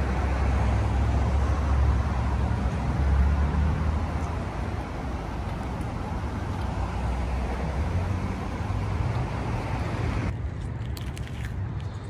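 Steady low rumble of a car, as of an engine idling close by. About ten seconds in the higher hiss falls away and a few light ticks appear over the continuing rumble.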